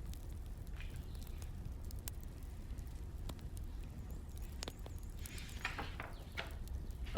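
Crackling wood fire: scattered sharp pops over a low steady rumble, with a short cluster of louder crackles and clicks about five to six seconds in and a louder one at the end.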